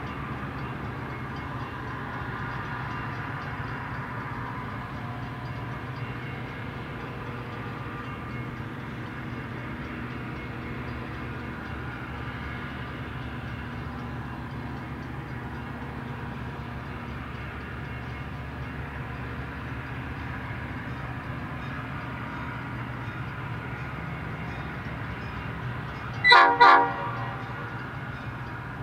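EMD diesel locomotive of a Metra commuter train running steadily, then sounding two short horn blasts in quick succession about 26 seconds in: the standard two-short signal that a train is releasing its brakes and proceeding from a stop.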